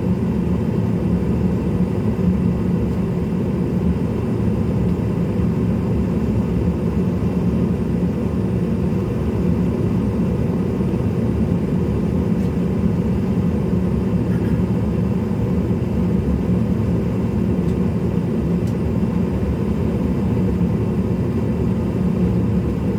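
Steady low rumble and hum inside the cabin of a CRJ-700 regional jet on the ground before takeoff, even and unchanging.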